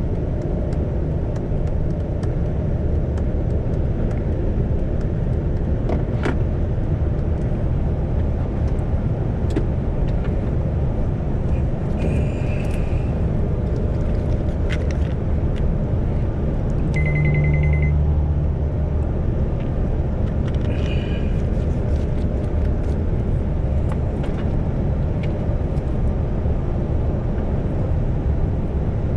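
Isuzu Giga heavy truck's diesel engine and road noise, heard from the cab while cruising at steady speed. A steady low drone runs throughout. Brief high-pitched beeps come twice, about twelve and twenty-one seconds in, and a short steady tone comes with a swell in the low hum about seventeen seconds in.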